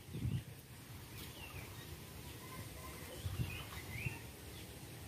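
A few faint, short bird chirps over quiet open-air background.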